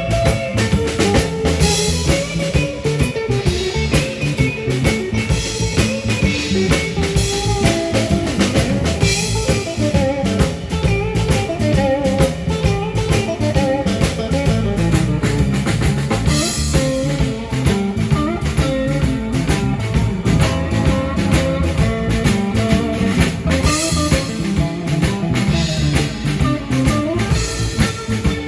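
Live band playing an instrumental passage: guitar over a drum kit with a steady beat and snare rimshots.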